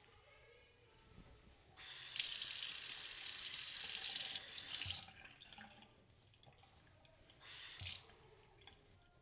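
Water tap running for about three seconds and then shut off, followed by a second short run of water near the end.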